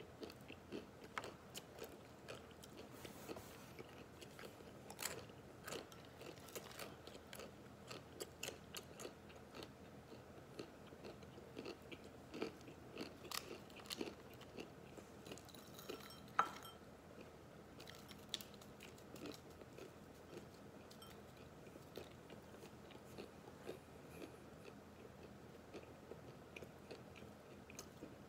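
Dry, uncooked instant ramen noodles being bitten and chewed: irregular small crunches and clicks, with one sharper snap a little past halfway.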